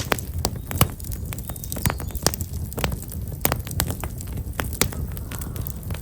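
Black locust (false acacia) firewood burning in an open fire, crackling with many irregular sharp pops over a steady low rumble.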